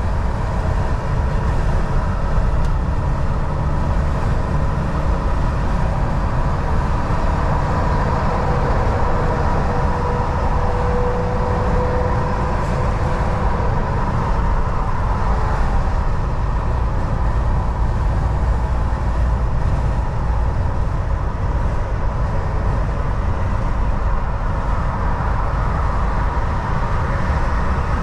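Volvo VNL 760 semi truck driving at highway speed: a steady engine drone and road rumble with a faint whine over it.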